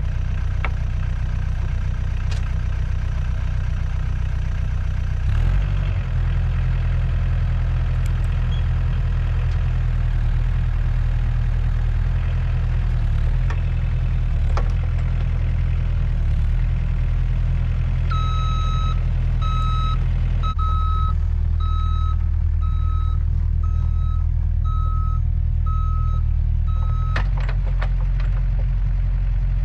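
Mini excavator's diesel engine idling steadily while it warms up after a cold start. A little past halfway an alarm beeper starts sounding about once a second, and it stops shortly before the end.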